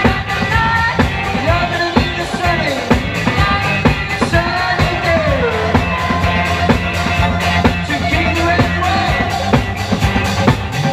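Live rock band playing, with a steady bass, regular drum hits and melodic lines sliding up and down in pitch.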